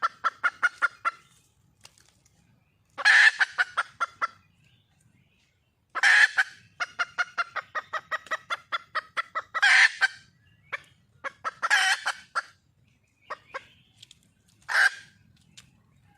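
Red junglefowl hen calling: quick runs of clucking notes, about six a second, broken by louder, harsher calls about every three seconds.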